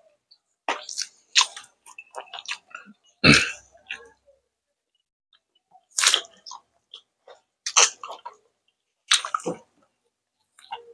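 Close-miked eating noises from people eating by hand: wet chewing and lip smacks in short separate bursts, with one louder thump about three seconds in.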